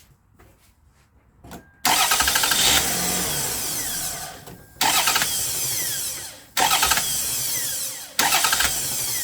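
2002 Toyota Solara's engine being started with a newly fitted starter, four times in quick succession. Each start is a short burst of cranking as the engine catches, then it runs a second or two and dies away as it is switched off.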